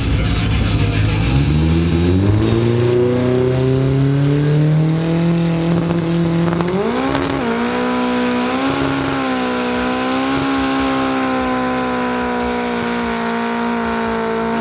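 Car engine revving under load for a burnout: the pitch climbs steadily for about five seconds, jumps higher about seven seconds in, then is held at high revs, over a steady hiss of spinning tyres.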